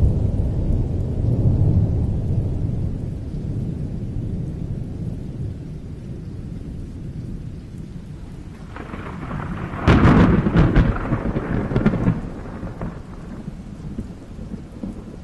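Thunder: a low rolling rumble that fades over the first several seconds, then a sudden loud crack about ten seconds in that crackles for a couple of seconds before dying back into a low rumble.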